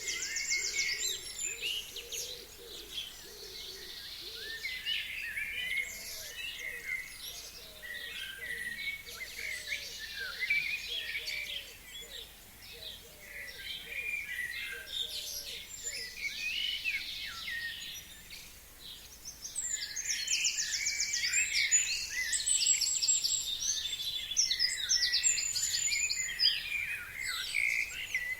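Several forest birds singing at once in early spring, with many overlapping chirps and song phrases. A fast trill comes right at the start and a louder burst of song comes about twenty seconds in. A run of lower, fainter short notes repeats steadily from about five to ten seconds in.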